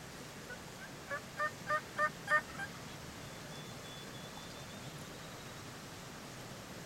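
Wild turkey yelping: a run of about six evenly spaced yelps, each louder than the last, over a steady outdoor hiss.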